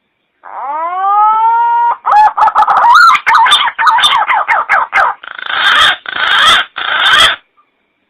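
Recorded punai (green pigeon) lure call played loud. One rising, then held whistled note, a fast run of warbling, falling notes, and three harsh, rough-edged notes near the end.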